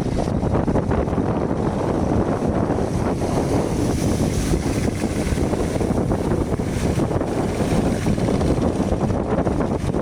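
Engines of motor fishing boats running steadily, mixed with wind buffeting the microphone.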